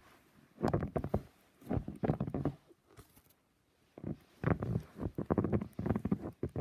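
Footsteps crunching through deep snow, in three bursts of several crunchy steps with short pauses between.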